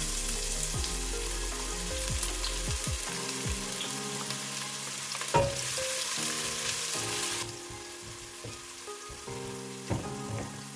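Chopped onions sizzling in hot cooking oil in a pan, the hiss easing off about seven seconds in, with a couple of sharp knocks of a utensil against the pan while they are stirred.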